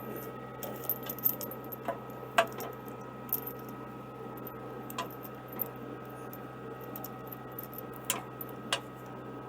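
Excavator's chain clinking and clanking in sharp, irregular metallic clicks, the loudest about two and a half seconds in, as it tightens and grips on a smooth iron rod, over the steady hum of the machine's idling engine.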